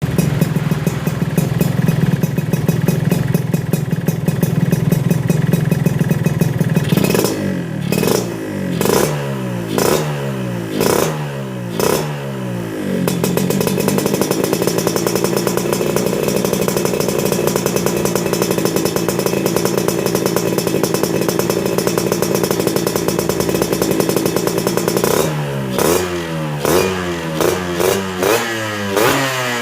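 Yamaha RX-King 135 cc two-stroke single running through an aftermarket under-slung racing exhaust. It idles steadily, then the throttle is blipped about six times in quick rises. It holds a steady, higher engine speed for about twelve seconds, then is blipped again in a quick run of about six revs near the end.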